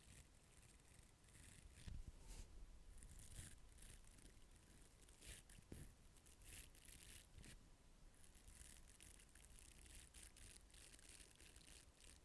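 Faint, close-miked ASMR mouth sounds: many short, irregular clicks and smacks with small gaps between them.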